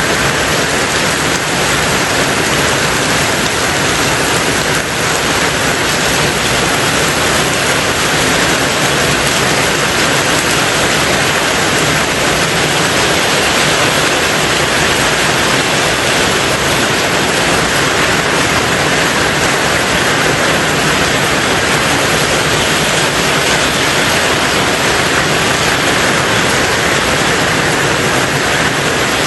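Steady heavy rain falling on a tin roof, an even unbroken hiss with no single drops standing out.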